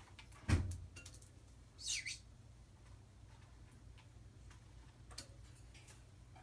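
A sharp knock about half a second in, then a short, high chirp from a pet bird about two seconds in, with faint scattered clicks of the bird moving about.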